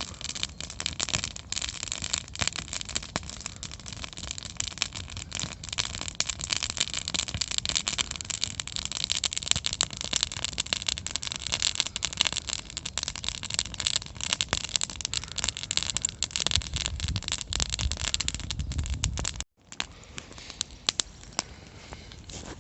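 Campfire crackling, with a dense run of small pops and snaps. It breaks off abruptly near the end, then carries on more quietly.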